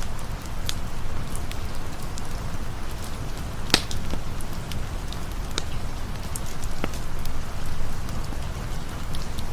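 Steady rain with a deep, even rumble, and scattered sharp crackling pops from a campfire. One pop a little over a third of the way in is louder than the rest.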